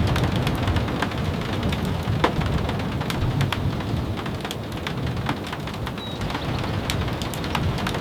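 Steady rain falling, with scattered sharp ticks of drops hitting close by. Under it a low rumble of thunder eases off midway through and builds again near the end.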